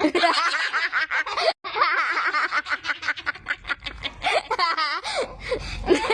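People laughing hard in high-pitched, rapid fits, with a brief break about one and a half seconds in.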